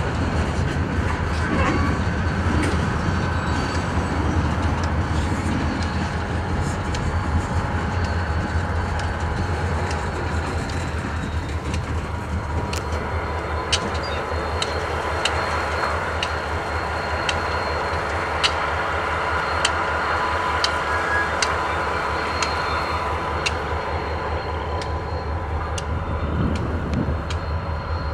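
Freight train cars, covered hoppers and boxcars, rolling past with a steady rumble of steel wheels on rail. Sharp clicks come about once a second in the later part, and a faint steady high tone runs underneath.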